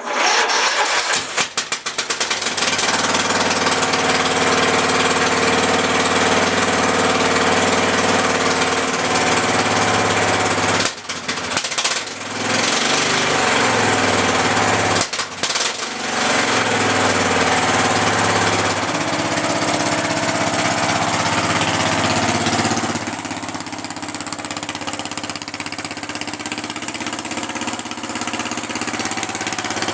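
Riding lawn mower's engine catching on a cold start and running loud through its new exhaust, the pitch rising and falling as it is revved. It briefly cuts out twice, once about eleven seconds in and again about fifteen seconds in, then runs on steadier and a little quieter near the end.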